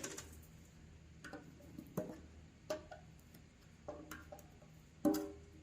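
Scattered clicks and knocks, about six in all, from a tub of Duraglass fiberglass body filler being opened and handled; the loudest knock comes near the end and rings briefly.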